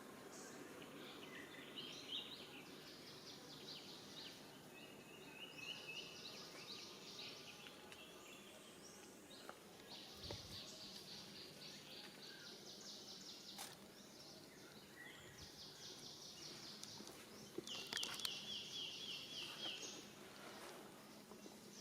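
Faint outdoor ambience with repeated high, rapid chirping trills one after another, the loudest near the end, and a few faint clicks.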